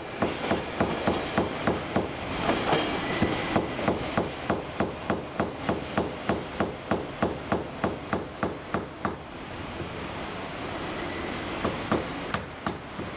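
Freight train's container wagons passing, their wheels clacking over rail joints about three times a second over a steady rumble. After about nine seconds the clacks stop as the last wagon goes by, leaving a low rumble, and a few more clacks come near the end as the train draws away.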